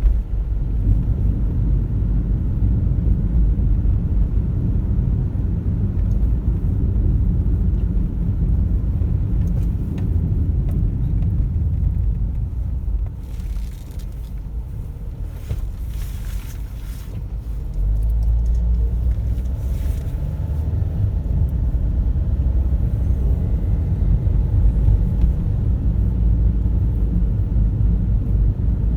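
Car road and engine noise while driving, a low steady rumble that eases for a few seconds past the middle and comes back up.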